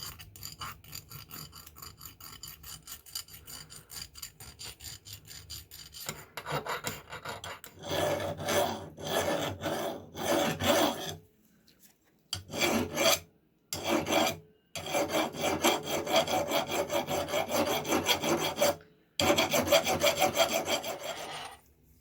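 Hand file rasping on metal in quick, even back-and-forth strokes. It is softer for about the first six seconds, then louder, and stops briefly a few times.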